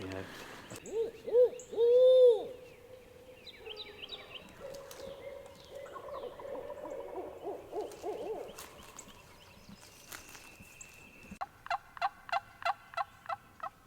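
An owl hoots loudly a few times, followed by wild turkeys gobbling in rapid rattling runs, fainter and further off. Near the end comes a quick, even series of about ten sharp calls, some four a second.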